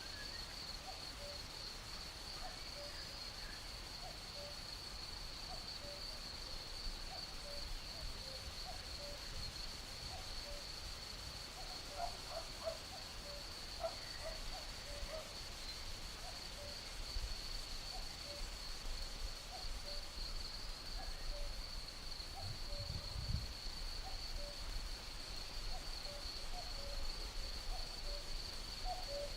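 Crickets trilling in a steady high-pitched drone while a cuckoo calls over and over with short, low, hooting notes.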